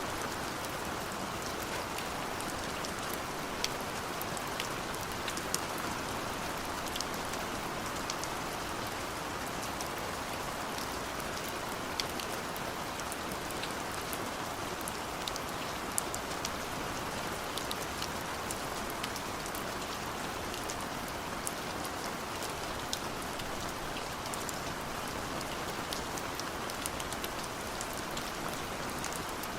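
Steady rain falling on a surface, with individual drops ticking sharply here and there.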